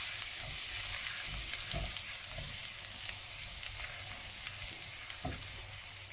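Minced ginger and garlic sizzling steadily in hot oil in a wok, stirred with a spatula that knocks softly against the pan a few times.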